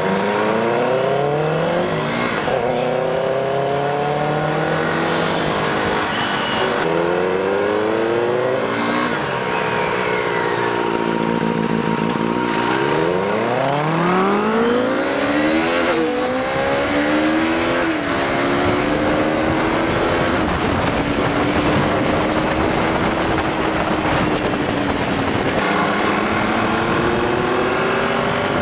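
Benelli TNT 600i inline-four engine through an aftermarket IXIL exhaust, heard from the saddle as the bike accelerates up through the gears. The pitch climbs and drops at each upshift several times, holds steady at cruise, then climbs again near the end, with wind rush throughout.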